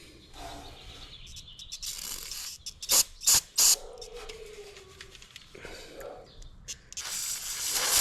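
Aerosol can of brake cleaner sprayed through a straw to clear a small-engine carburetor jet: three short, sharp bursts about three seconds in, then a longer, louder spray near the end.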